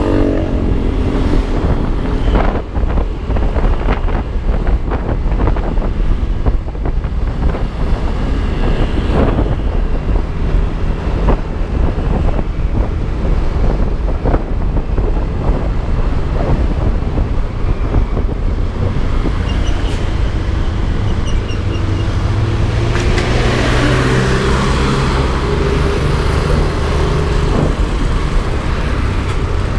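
Yamaha Aerox V2 155 cc scooter riding in traffic: wind rushing over the mounted camera's microphone over the scooter's engine and the traffic around it. A rising engine note and a louder rush of traffic noise come in about two-thirds of the way through.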